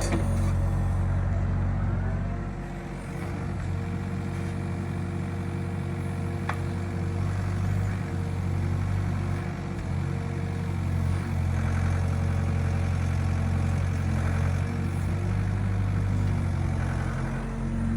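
Excavator engine running at a steady speed, with a few brief dips in loudness.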